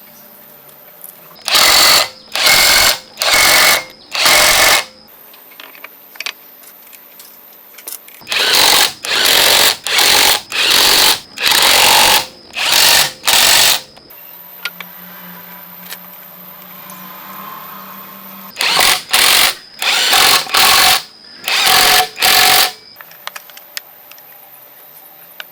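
A power tool run in repeated short bursts of about half a second, in three runs of four, seven and five bursts.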